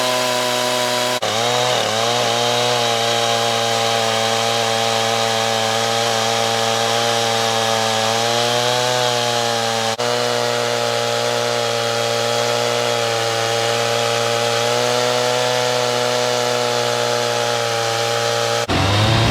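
Stihl MS 391 two-stroke chainsaw running at full throttle on a chainsaw mill, ripping lengthwise through a green cedar log. Its engine note holds steady, sagging a little in pitch now and then as the chain takes the load.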